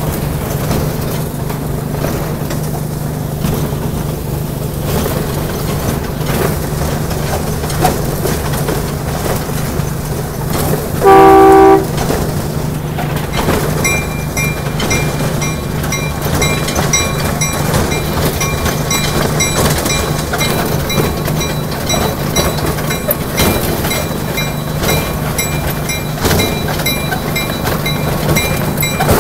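Ride-on backyard train running with a steady low drone, sounding one short horn blast of several tones together about 11 seconds in. From about 14 seconds a faint high ringing repeats at an even pace.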